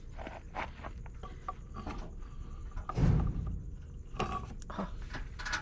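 Irregular mechanical clicks and knocks, with one louder, heavier thud about three seconds in.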